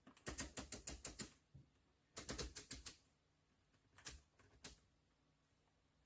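Two quick runs of sharp mechanical clicks, each about eight clicks, then two single clicks.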